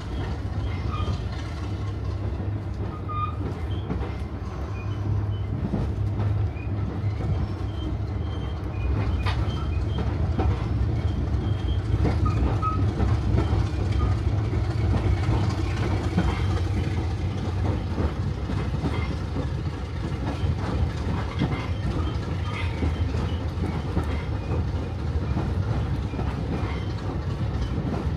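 Passenger railway carriage in motion, heard from inside the coach: a steady low rumble of wheels on rail with fine rattles and clicks.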